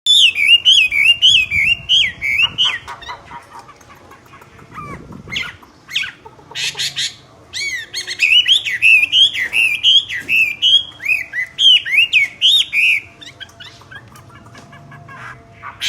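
Myna bird calling loudly: long runs of quick, wavering whistled notes, broken by a few harsh, rasping calls.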